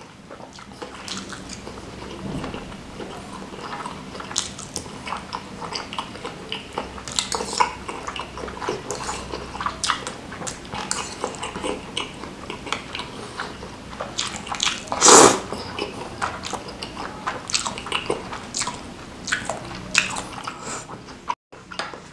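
Close-miked mouth sounds of eating bakso meatballs and rice vermicelli in broth: irregular wet chewing, smacking and small clicks. One louder slurp comes about fifteen seconds in.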